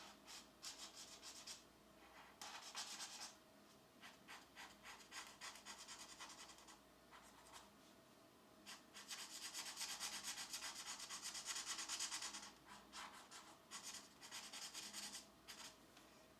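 Pencil scratching across a colouring book page in quick back-and-forth shading strokes. The strokes come in short runs, with a longer unbroken stretch of shading about halfway through.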